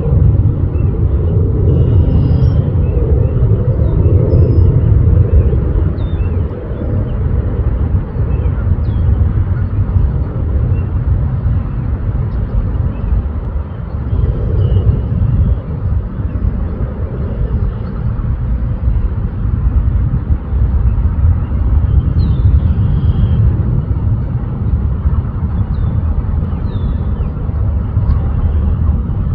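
Loud, low rumble that flickers in level throughout, with scattered faint, short high chirps above it.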